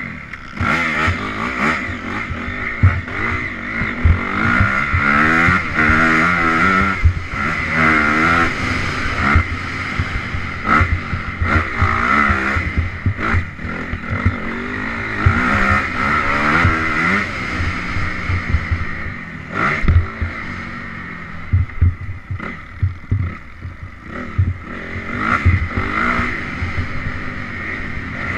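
Honda CRF 250R four-stroke single-cylinder dirt bike engine revving up and falling back again and again as it is ridden cross-country, with frequent sharp knocks.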